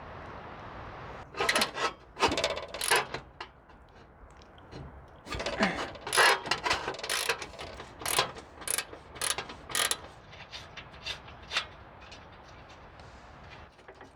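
Socket ratchet clicking in short, irregular bursts as a bumper bolt is worked loose.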